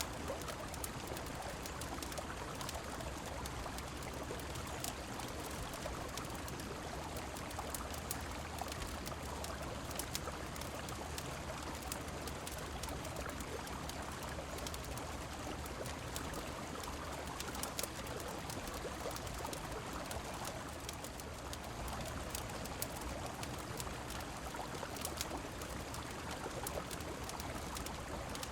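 Steady rush of flowing river water with rain, an even, unbroken wash of sound sprinkled with many small, scattered ticks.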